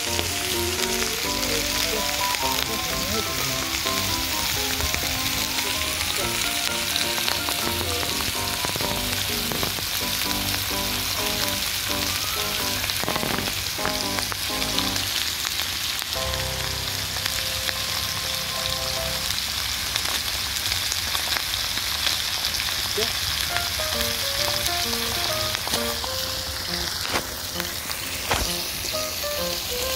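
Pork belly sizzling steadily as it fries in its own fat on a cast-iron pot lid (sotttukkeong griddle), with a background melody playing.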